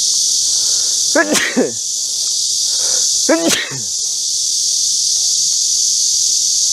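A loud, steady chorus of cicadas buzzing, with no break. Twice, about one second and three and a half seconds in, a short voice-like sound falls in pitch over it.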